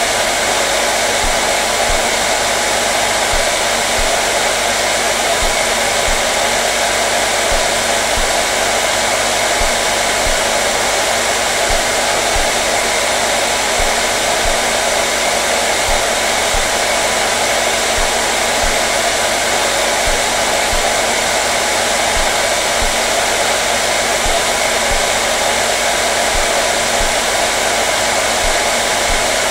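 Hair dryer running continuously and steadily: an even rush of blown air over a steady motor hum, with no change in speed.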